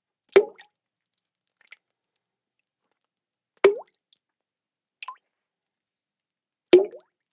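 Water drops falling one at a time into water, each a short plop with a quick upward glide in pitch. Three louder drops land about three seconds apart, with two fainter ones between them.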